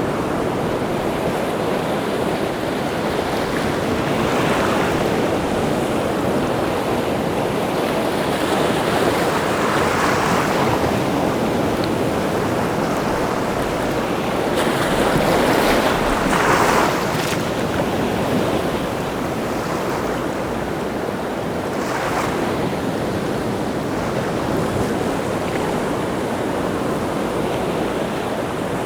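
Rough sea surf: waves breaking and washing in continuously, with several louder breakers swelling up and falling back, the loudest about halfway through. Wind runs under the surf.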